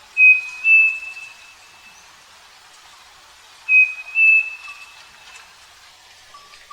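Striped cuckoo (saci) singing its clear two-note whistled song, the second note slightly higher, given twice about three and a half seconds apart.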